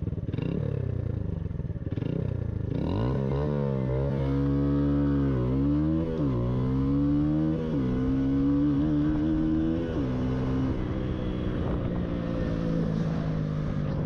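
Motorcycle engine pulling away and accelerating, its pitch climbing and dropping back several times as it shifts up through the gears, then holding at a steadier speed, over road and wind noise.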